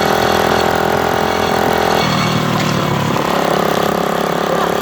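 Motorcycle engine running steadily; about two seconds in, its note shifts lower.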